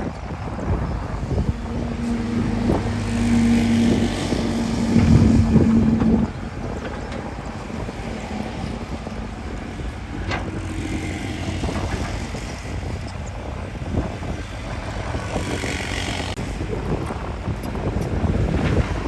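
Diesel engine of heavy earthmoving machinery running: it grows louder for a few seconds near the start, then drops suddenly at about six seconds and runs on more quietly.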